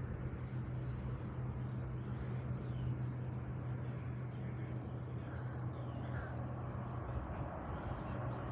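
A steady, low engine drone from a distant boat or aircraft, with a few faint bird chirps over it.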